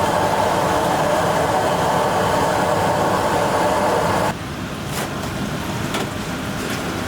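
Steady roaring noise of a commercial kitchen at work that drops off suddenly about four seconds in, leaving a quieter hum with a few light clinks.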